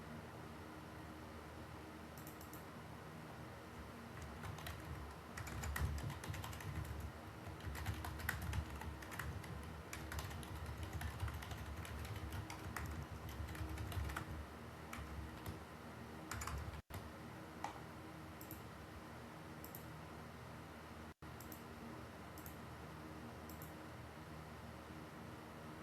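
Typing on a computer keyboard: a busy run of key clicks from about four seconds in to about seventeen seconds, then a few scattered keystrokes, over a steady low hiss.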